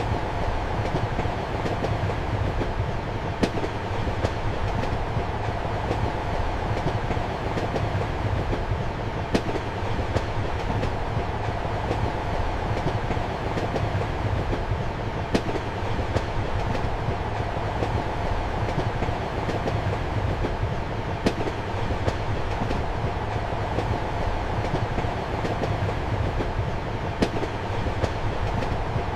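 Train running, heard from inside a compartment: a steady rumble and hum, with a sharp click of the wheels over the rails about every six seconds and fainter ticks between.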